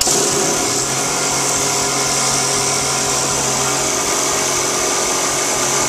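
Small model engine running at high speed, a steady loud whir with a strong hiss, starting suddenly and holding an even speed.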